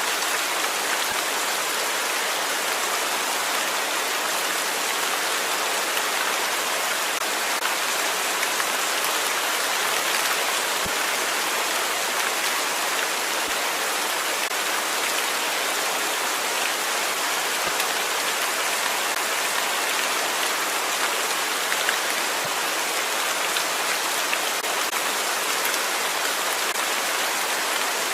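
Steady rain falling on a surface, an even hiss of many drops that holds level throughout.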